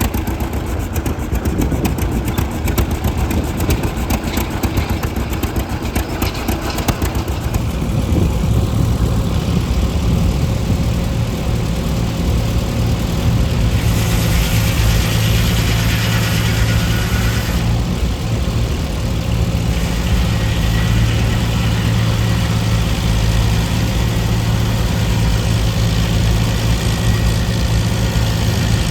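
An engine running, its fast ticking giving way after about eight seconds to a steady, low idle. A hiss rises over it for a few seconds near the middle.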